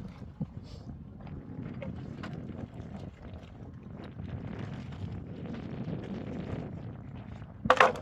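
Wind buffeting the microphone as a steady low rumble, with scattered small knocks and a short loud burst near the end.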